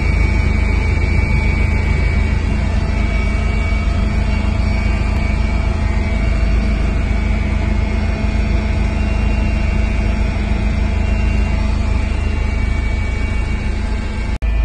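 Helicopter running steadily, a constant loud engine and rotor drone with steady tones, dropping out for a moment near the end.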